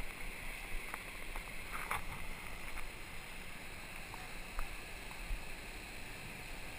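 Water rushing along the hull of a rowed surf boat, a steady hiss, with a few faint knocks scattered through it.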